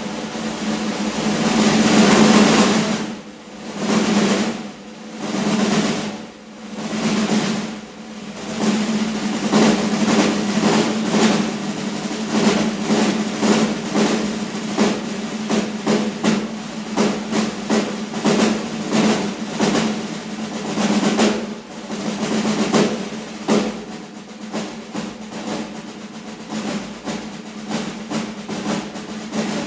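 Snare drumming: a roll swells up, then three shorter swelling rolls, then a steady, even pattern of strokes with regular accents, in the manner of a train's rhythm.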